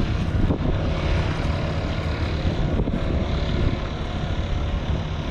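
Steady engine drone.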